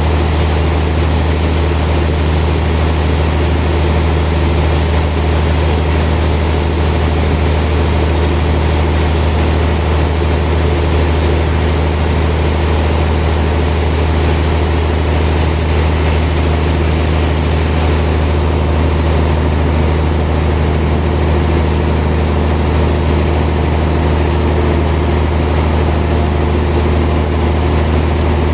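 Sawmill machinery running steadily: a loud, even, low engine or motor hum with no breaks or changes.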